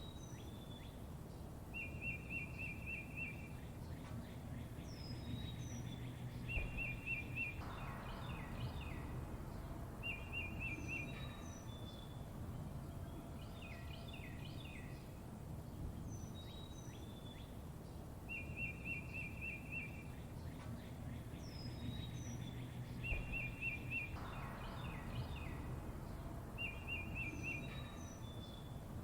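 Birds chirping: short rapid trills and high, falling whistled notes come every few seconds over a steady low rumble, and the same run of calls repeats about every sixteen seconds.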